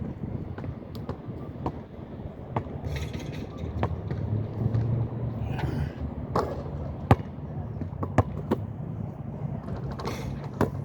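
Strong wind buffeting the microphone with a steady low rumble, broken by scattered sharp clicks and knocks, the loudest about seven and eight seconds in, and a few short rushing gusts.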